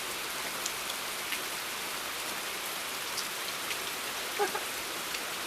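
Steady rain falling, an even hiss with scattered individual drops ticking close to the microphone.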